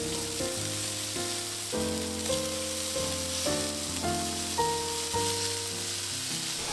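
Chicken searing on a very hot barbecue grill, sizzling steadily, under background music with a melody of changing notes.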